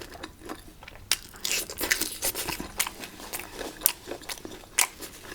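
Close-miked mouth sounds of a person eating hotpot food: bites and chewing, heard as irregular sharp clicks and smacks, a few every second.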